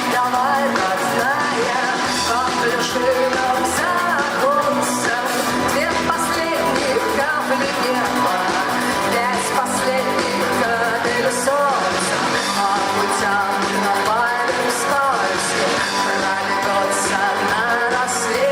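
A rock band playing a song live, guitars and drums under a female lead voice singing.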